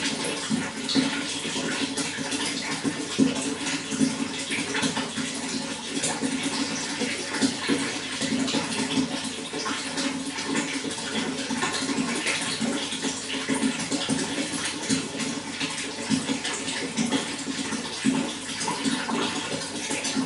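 Running water flowing steadily, with constant small splashes.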